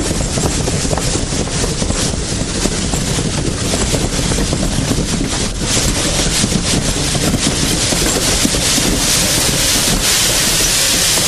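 Steam-hauled train running, a dense steady rumble with wind buffeting the microphone. A hiss of steam builds near the end.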